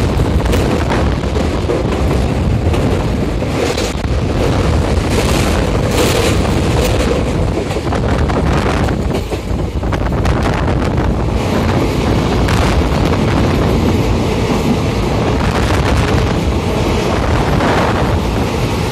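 Passenger train running at speed, heard from an open carriage door: wind buffeting the microphone over the steady rumble of the wheels on the rails, with occasional sharp clicks from the track. Near the end the noise changes as the coach enters a tunnel.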